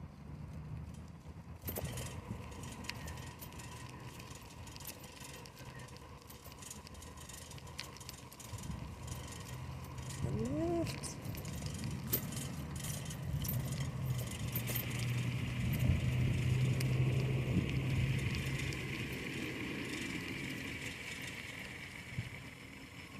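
A bicycle being ridden: a steady low rumble with many small clicks and rattles from the bike, one short rising squeak about ten seconds in, and a hiss that swells about halfway through and eases near the end.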